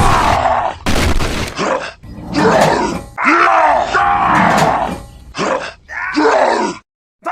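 A run of loud groaning, grunting calls from a voice, one after another with short gaps, and a brief noisy crash about a second in.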